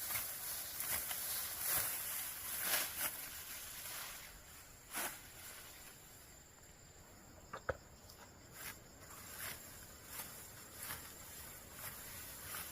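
Irregular dry rustling and crunching strokes, close together for the first few seconds and then thinning out, with one sharp snap a little past the middle.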